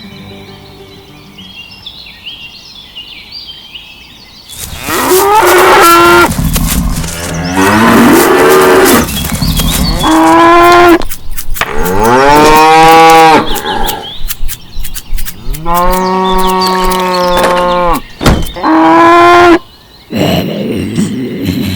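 Cattle mooing: after a quiet opening, about six loud, drawn-out moos, each bending in pitch.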